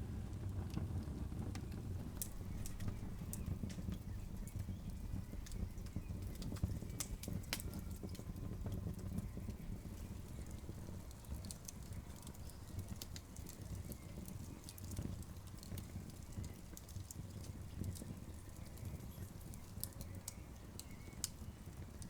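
Campfire burning, with irregular sharp crackles and pops from the burning wood over a low, steady rumble.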